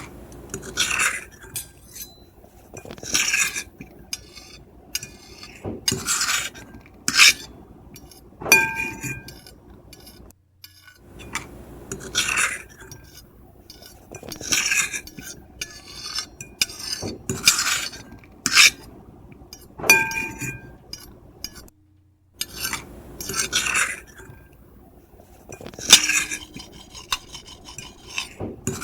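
Metal fork and knife scraping across a ceramic plate in repeated irregular strokes, some ringing briefly with a high screech, with short pauses and occasional clinks between them.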